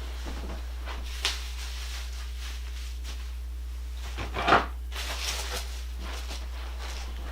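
Handling noises: a sharp click about a second in, then a louder clatter and a few light knocks around the middle, over a steady low hum.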